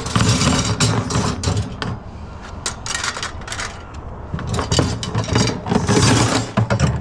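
Scrap metal, including wire shelving, being handled and loaded: irregular clanking, rattling and scraping of metal pieces against each other, loudest near the end. A truck engine idles steadily underneath.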